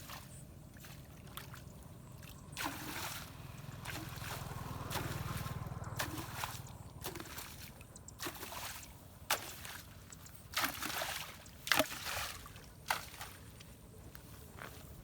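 Floodwater rushing and gurgling through a cleared blockage, with several brief splashes and sloshes, the sharpest about twelve seconds in.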